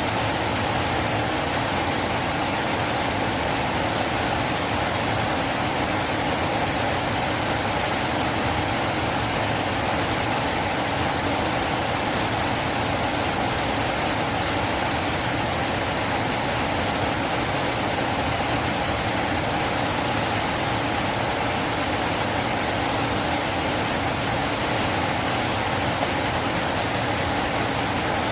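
Steady rushing of a flowing river, an even noise with no breaks or changes in level.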